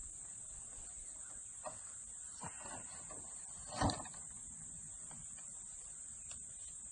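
Crickets chirring steadily and high-pitched. Over it come a few soft knocks and one louder bump about four seconds in, from opening a wooden horizontal beehive.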